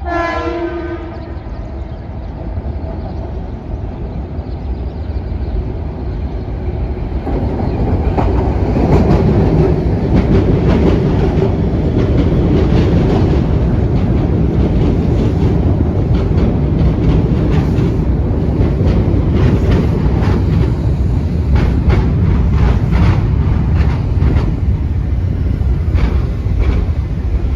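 A Metro-North train's horn sounds briefly at the start. Then the train's rumble on the rails grows louder about seven seconds in and holds, with many quick clicks of wheels over rail joints.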